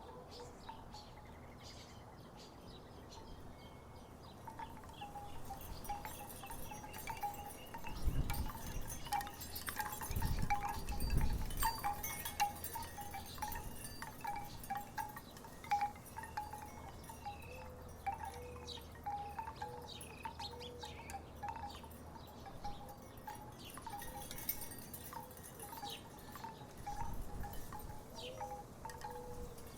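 Wooden tiki wind chimes knocking together in the breeze: hollow clacks and short pitched notes that grow busier a few seconds in. A low rumble swells about eight seconds in and again around eleven seconds.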